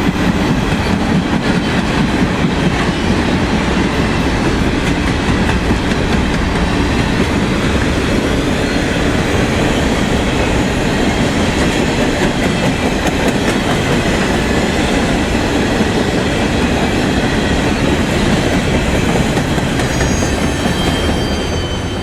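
Train rolling past on the rails: a loud, steady clatter of wheels over the track, with faint high wheel squeal near the end.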